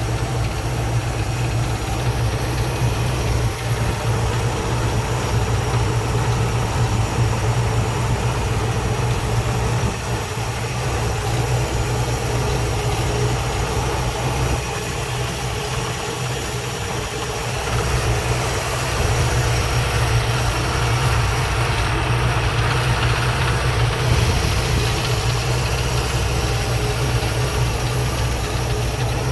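Ford 302 Windsor V8 engine running steadily at idle.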